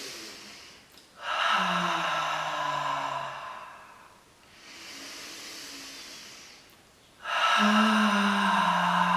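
A woman taking deep audible breaths as a warm-up exercise: a long hissing inhale, then an exhale let out as a voiced sigh that slides down in pitch. The cycle comes twice, and the second sigh starts about seven seconds in.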